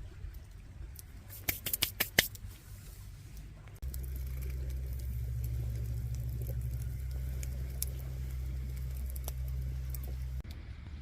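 A few sharp cracks and snaps of a campfire about two seconds in, then a steady low rumble for about six seconds that starts and stops abruptly.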